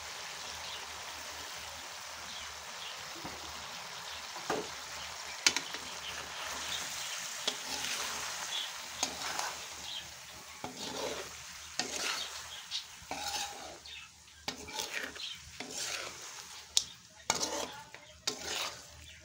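Chicken, carrots and potatoes sizzling in a pan while being stirred, the utensil scraping and knocking against the metal. The sizzle is steady at first. About halfway through, the scraping and knocking come thicker as the stirring picks up.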